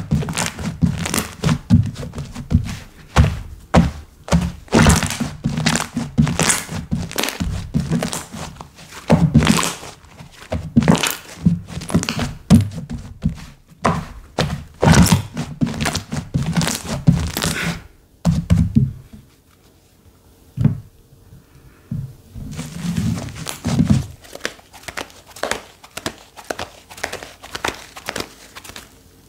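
Slime being squeezed, pressed and stretched by hand, giving a dense run of sticky pops and clicks. About two-thirds of the way through it goes much quieter, with only a few isolated clicks, then lighter clicking resumes.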